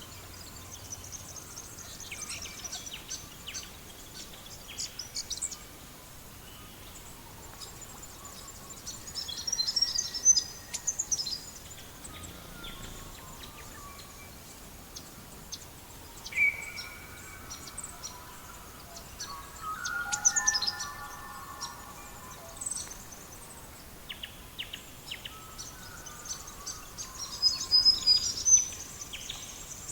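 Songbirds singing and chirping in high, quick phrases, loudest about a third of the way in, two-thirds in and near the end, over a steady hiss with scattered sharp crackles of a wood fire.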